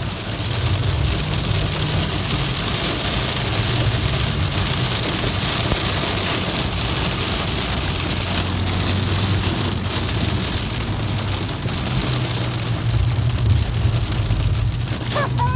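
Steady rain hiss, with a car engine running low and steady underneath.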